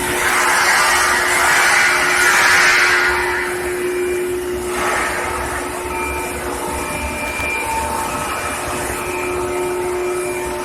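Induction heating line for steel pipe running: a steady machine hum of several held tones with rushing noise over it, louder for the first three seconds or so and surging again briefly about halfway through.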